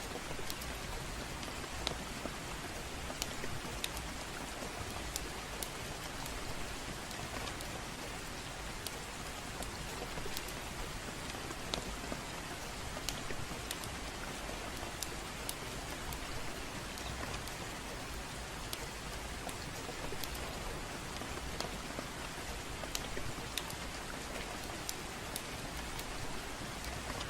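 Steady gentle rain, a constant even hiss, with scattered sharp crackles and pops from a fireplace a few times a second.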